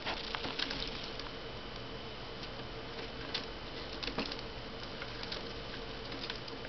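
Young budgies splashing in bath water: scattered light pattering splashes and flicks, a cluster near the start and another about four seconds in, over a steady low hiss.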